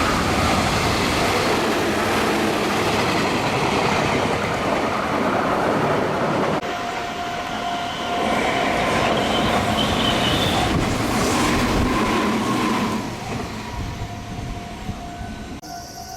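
Meitetsu electric train passing through the station at speed: loud rushing wheel-on-rail noise with clickety-clack, changing suddenly about six and a half seconds in, then dying away after about thirteen seconds, leaving a few steady tones.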